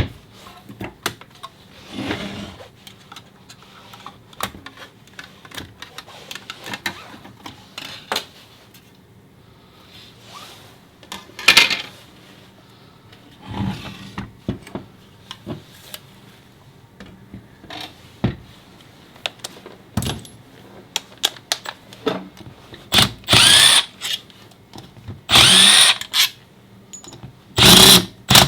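Scattered clicks and knocks of metal tools being handled, then near the end three bursts of about a second each from a power tool such as a cordless drill-driver, its motor speeding up and slowing down.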